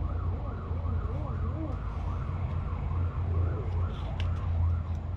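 Steady low machinery hum, with several warbling tones over it that rise and fall about two to three times a second, like a siren.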